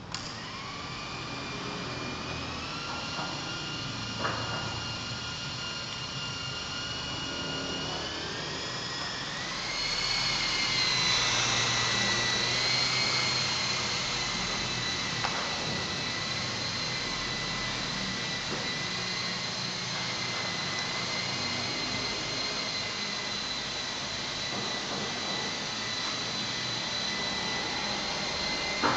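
Radio-controlled model helicopter running with a high-pitched whine. It starts up at once, rises in pitch about eight to ten seconds in, then holds steady.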